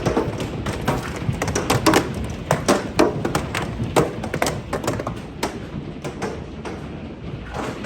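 Hailstones pelting hard surfaces: a dense, irregular patter of sharp cracks and thuds, several a second, over a steady rush of falling ice and rain.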